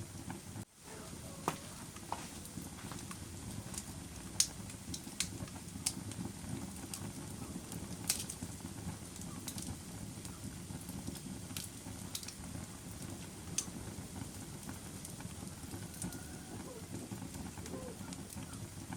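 Wood fire burning in a fireplace: a steady low rumble of flames with scattered sharp crackles and pops. The sound drops out briefly about a second in.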